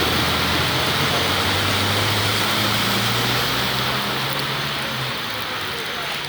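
Heavy rain pouring steadily, with a motor vehicle's engine running underneath that dies away about five seconds in.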